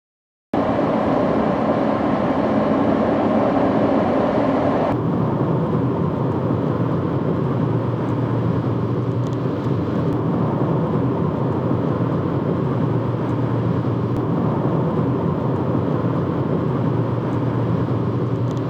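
Steady road-vehicle noise with no speech, starting abruptly and shifting to a lower, rumblier tone about four and a half seconds in.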